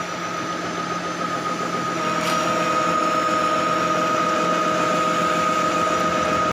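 Motor-driven corn husking and shelling machine running steadily with a high whine, a little louder after about two seconds when a lower tone joins in.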